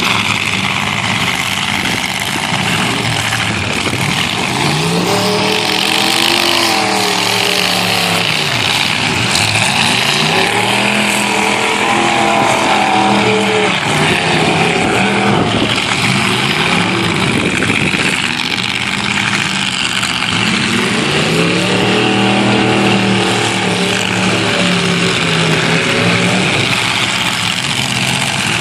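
Half-ton pickup truck engines revving hard in a demolition derby, over a continuous din of several engines running. Three times the revs climb and fall away again.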